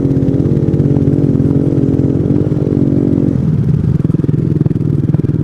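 Small 125cc single-cylinder motorcycle engine running under way, its pitch steady for about three seconds and then dropping as the throttle eases off.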